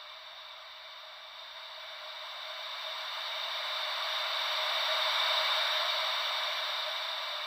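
Gentle ocean waves as a soft, hissing wash with no low rumble, swelling slowly to a peak a little past halfway and then receding.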